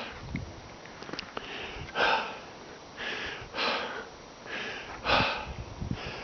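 A person breathing hard and rhythmically close to the microphone, one breath about every second to second and a half, typical of exertion on a climb.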